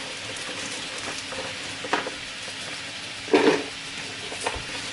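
Tofu sizzling steadily as it fries in hot oil. A few light knocks and clatters from kitchen work cut in, the loudest a bit past halfway.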